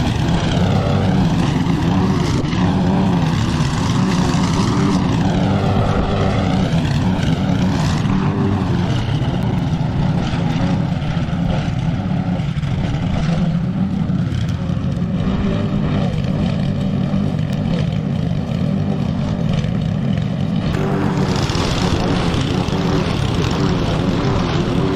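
Petrol lawn mower engine running steadily.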